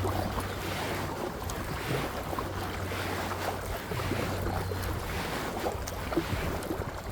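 Kayak paddle strokes splashing in water, in repeated swells, with wind rumbling on the microphone.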